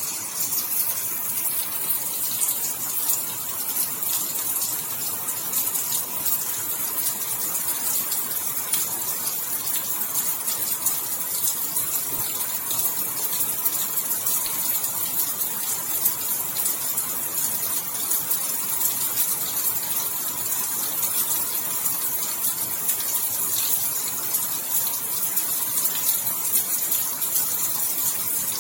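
Steady rain falling: an even hiss with a dense patter of fine drops, unchanging throughout.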